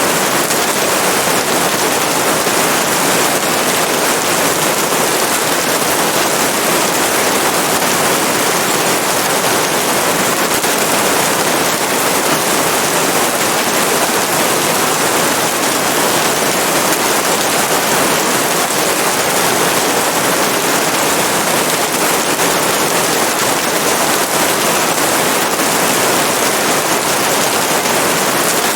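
Steady, loud rain: a dense, even hiss of falling water that does not change.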